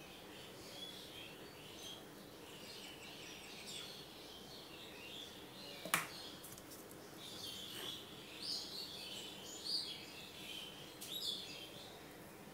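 Small birds chirping faintly and repeatedly, with one sharp click about halfway through.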